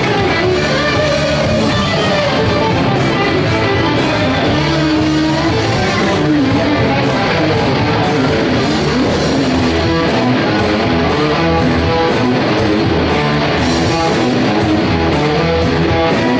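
Live rock band playing an instrumental passage led by distorted electric guitar over bass and drums, loud and steady.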